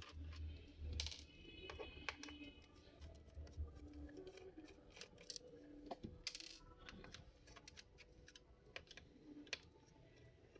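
Faint, irregular light clicks and taps of a screwdriver backing small screws out of a laptop's plastic underside, the screws ticking as they come loose and are set down.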